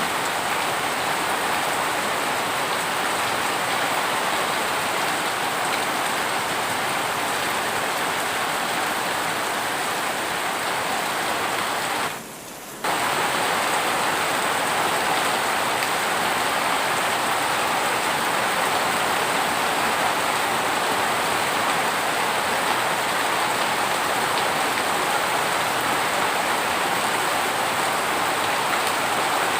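Heavy rain falling steadily, an even dense hiss of drops on surfaces. About twelve seconds in it drops away for roughly half a second, then resumes at the same level.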